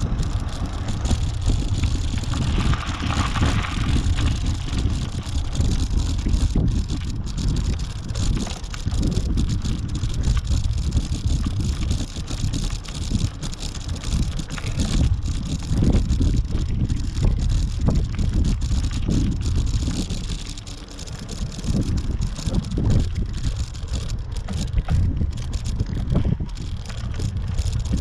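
Wind buffeting the microphone of a moving action camera: a heavy low rumble that rises and falls unevenly, with a brief brighter hiss about three seconds in.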